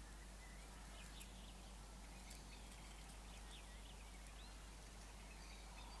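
Faint bird calls: a few short chirps and whistles, with sharp ticks, between about one and four seconds in, over a steady background hiss.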